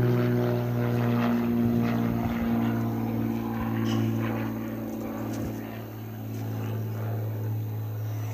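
Troy-Bilt lawnmower engine running at a steady speed, a constant droning hum that eases off a little in the second half.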